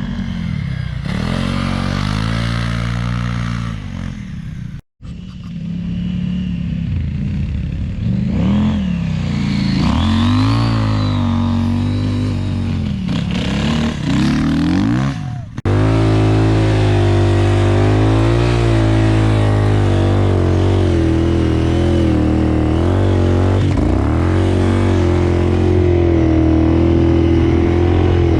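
KTM 990 Adventure's LC8 V-twin engine under varying throttle, its note rising and falling repeatedly, with a brief dropout about five seconds in. About halfway it switches abruptly to a steadier, constant engine note.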